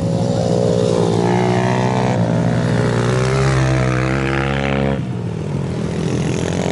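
Racing motorcycle engine accelerating, its pitch climbing twice in succession, then dropping away abruptly about five seconds in.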